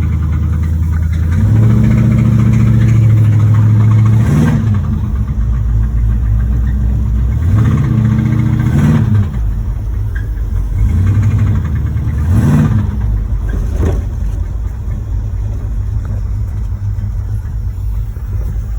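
1986 Chevrolet Monte Carlo SS's V8 engine pulling the car, revving up and dropping back three or four times as it accelerates and shifts. The engine has a knocking bottom end, the owner's rod knock.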